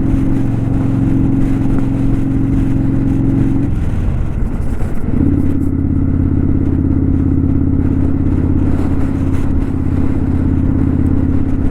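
Kawasaki Vulcan 900 V-twin motorcycle engine running at a steady speed on the road. About four seconds in the note falls away for a second or so, then picks up again and holds steady.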